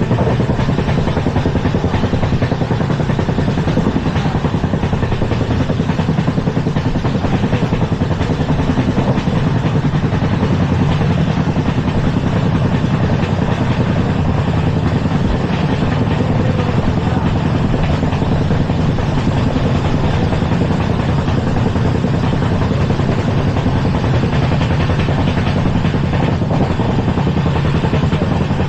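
LHB passenger coach running at speed: a steady, loud rumble of wheels on rail with a fine clatter, the 'burning track' running sound.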